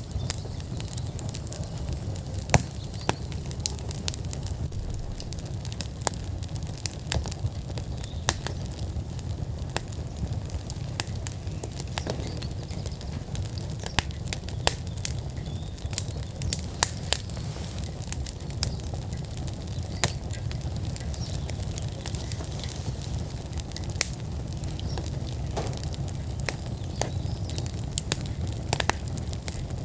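Wood fire burning in an outdoor fire pit, crackling with frequent sharp, irregular pops over a steady low rumble.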